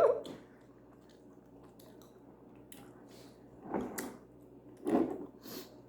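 Close-up eating sounds of chewing chicken wings: faint wet mouth clicks, with two louder chewing sounds about four and five seconds in.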